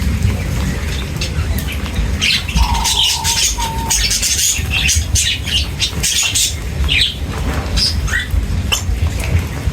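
A group of birds chirping and squawking in many short, overlapping calls, over a steady low rumble.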